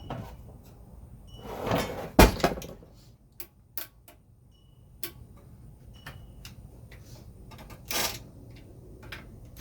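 Scattered knocks, clicks and scrapes of generator parts being handled during teardown. The loudest is a sharp knock about two seconds in, and there is a short scraping rustle near the end.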